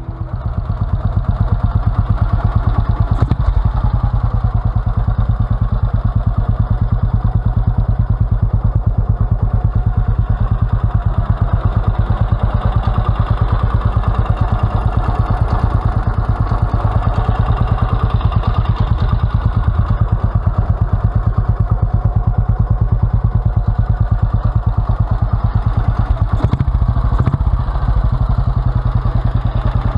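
1948 Norton Model 18 single-cylinder motorcycle engine running steadily at idle, with an even, rapid beat.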